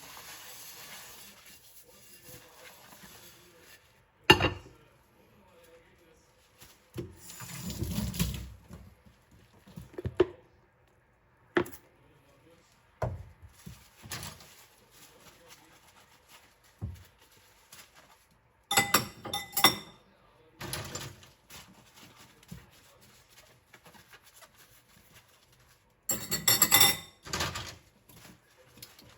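Dishes clinking and knocking against each other in a sink: scattered single knocks and a few short clattering runs, the loudest near the end. Faint running water fades out in the first few seconds.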